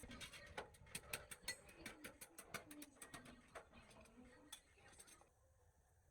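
Faint, irregular light clicks and taps, several a second, that stop about five seconds in.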